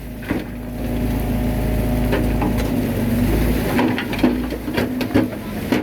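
Bulldozer's diesel engine running steadily, with scattered sharp clanks and cracks from the machine and the soil it is working. The clanks come more often over the last two seconds, as the low engine rumble drops away.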